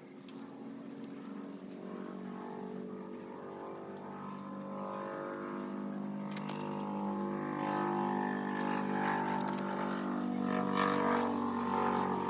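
An engine drone with a steady stack of tones, growing gradually louder.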